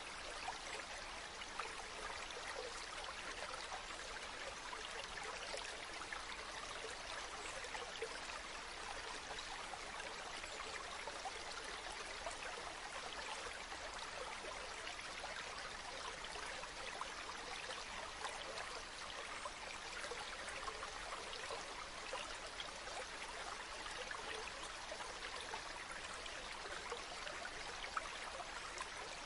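Running water making a steady, even rush with fine splashing, as of a stream or river flowing over rocks.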